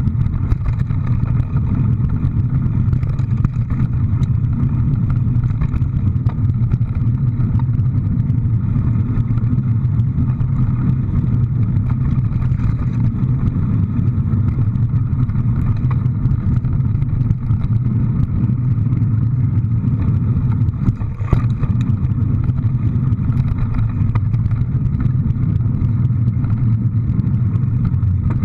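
A vehicle's engine running steadily with a constant low rumble, heard from on board while driving.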